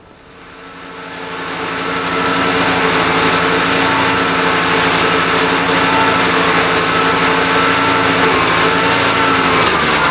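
Hyundai HYCH7070E-2 wood chipper's 208cc petrol engine running at a steady speed. The sound comes up over the first two seconds, and the note shifts slightly near the end.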